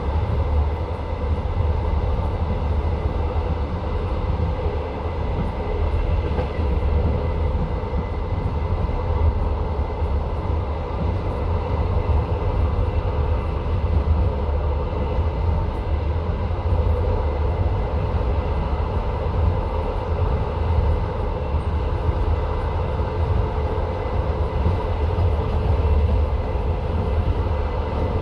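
Passenger train carriage running along the line, heard from inside the carriage: the steady rumble and clatter of the wheels on the rails, with a faint steady hum through it.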